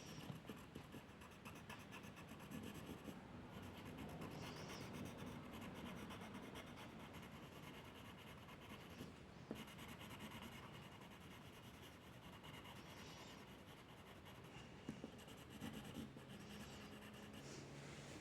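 Faint scratching and rubbing of a drawing tool stroking back and forth across paper.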